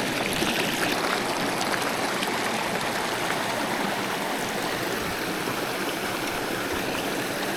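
Small mountain trout stream running steadily, an even rush of water over rocks.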